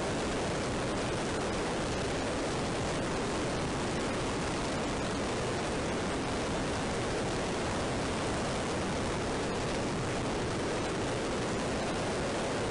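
Steady wind rush on a helmet-mounted action camera's microphone while riding a motorcycle, an even roar with no engine note showing through.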